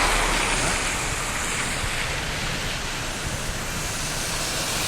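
Steady, even hiss of rain, with no breaks or distinct drops.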